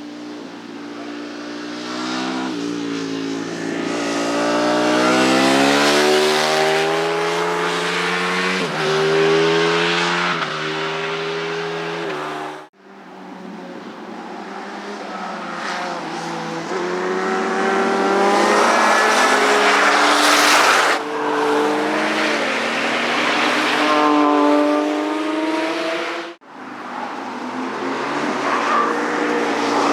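Motorcycle engines accelerating hard past on a race track, pitch climbing and dropping back at each upshift. There are three passes, broken by two sudden cuts about 13 and 26 seconds in.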